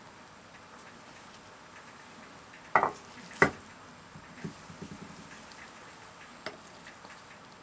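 Food sizzling faintly in a pan while it is stirred, with two loud knocks close together about three seconds in and several lighter taps after.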